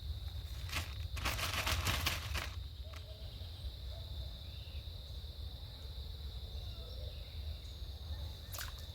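Insects chirring steadily in one high, unbroken tone, over a low rumble. About a second in there is a noisy rustling burst lasting a second or so.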